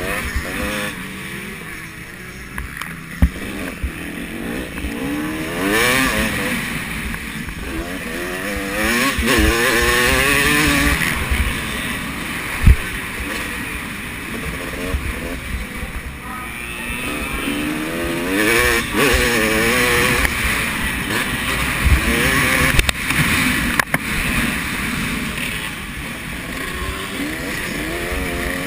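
Several motocross bikes racing round the track, their engines revving up and down as they pass, loudest about a third of the way in and again late on. A sharp knock comes near the middle.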